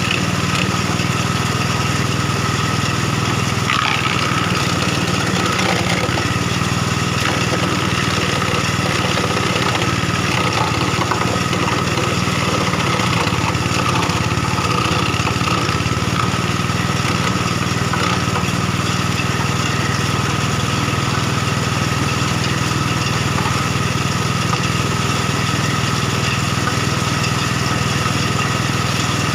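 Engine-driven wood crusher for making sawdust running steadily: a constant, even machine drone with a steady whine over it and no change in speed.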